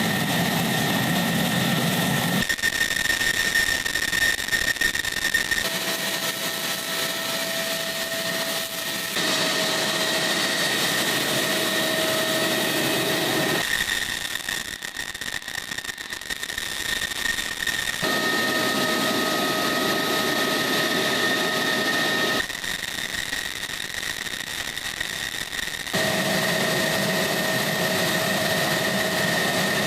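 F-16 fighter jet engine running on the ground with a steady high whine and rushing noise; the sound changes abruptly every few seconds as the footage cuts between shots.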